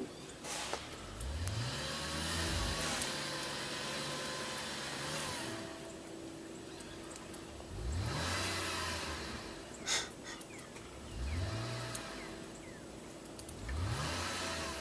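A BMW car's engine revving up four times as its wheels spin on snow and ice: the car is stuck and not moving. There is a short knock between the revs, about ten seconds in.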